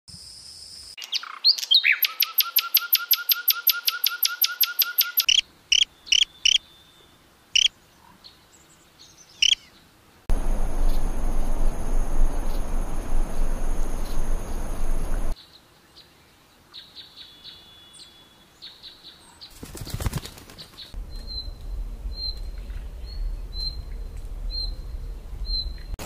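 Birdsong in several short takes. First a fast, even trill of about eight notes a second for a few seconds, then scattered single chirps. A few seconds of rushing noise with a steady high whine follow, and near the end a run of short high chirps about twice a second.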